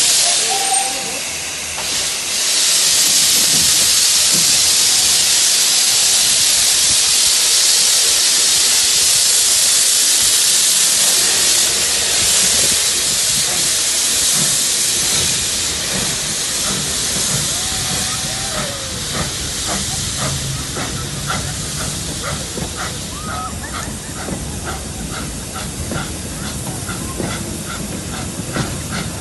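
Steam locomotive letting off steam in a loud, steady hiss. The hiss dies down about halfway through, leaving a regular beat of about two a second.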